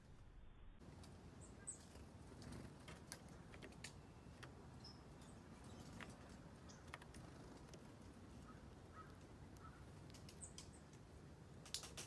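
Near silence, with faint scattered clicks and a few brief, high chips from small birds.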